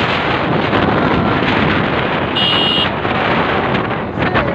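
Wind buffeting the microphone over the steady noise of a motorcycle ride. A brief, high-pitched beep sounds about two and a half seconds in.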